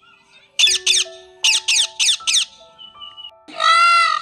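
Parrot squawking: short harsh screeches, some in quick pairs, then a longer, louder arching call near the end, over soft background music notes.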